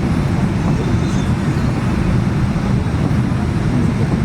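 Steady low rumble inside a Boeing 787-9 airliner cabin on the ground before departure, unchanging throughout.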